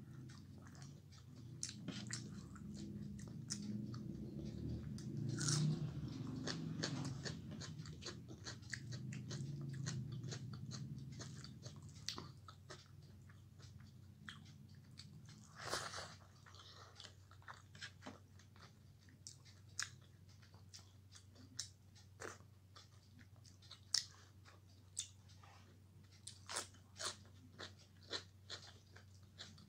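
Close-up eating sounds of a person chewing rice mixed with fish curry, eaten by hand: a fuller, louder stretch of chewing over the first half, then many short wet clicks and smacks scattered through the rest.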